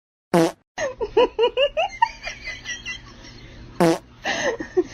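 Two short, sharp fart-like sounds about three and a half seconds apart, with a run of quick laughter between and after them.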